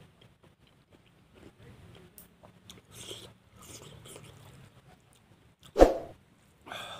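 A man chewing and eating a meal of rice and vegetables with his fingers, close to a clip-on microphone: faint mouth and chewing sounds with small ticks. About six seconds in there is one loud, sharp click or knock.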